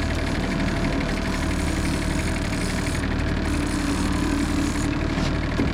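Boat engine running steadily at trolling speed.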